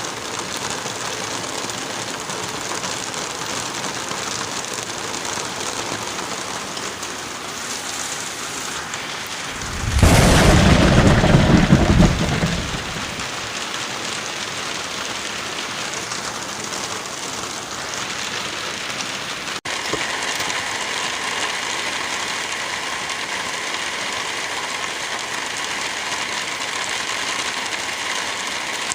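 Steady wind and light rain noise through a forest. About ten seconds in, a loud low rumble swells up and lasts two to three seconds before dying away, and about twenty seconds in there is a brief dropout after which the noise carries a few faint steady tones.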